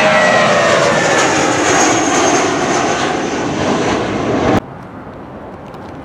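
Jet airliner passing close by, a loud roar with an engine whine falling in pitch as it goes. It cuts off suddenly about four and a half seconds in, leaving quieter wind noise.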